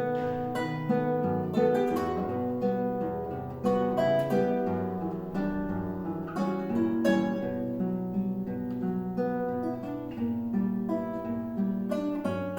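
A duet of acoustic guitars playing a slow piece, single plucked notes over chords, each note ringing and dying away.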